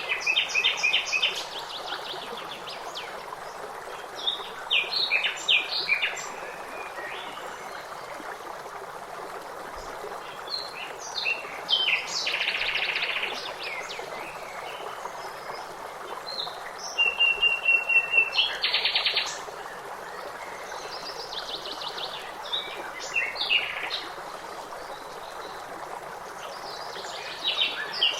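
Birds singing in short phrases every few seconds, some with rapid trills, over the steady rush of running stream water.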